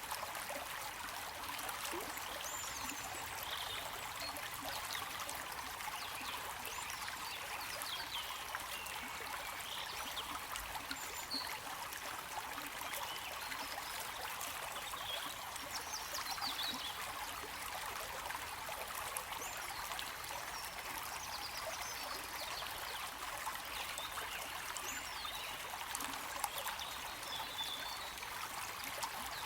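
Stream water flowing and trickling in a steady rush, with faint, short high-pitched sounds scattered through it.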